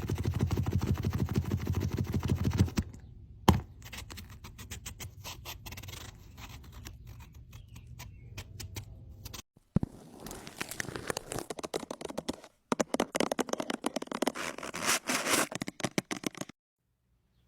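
Scraping and scratching in several short sections. It is dense at first, drops to fainter scratching after a sharp click, and turns to loud rapid scraping strokes that stop about a second before the end.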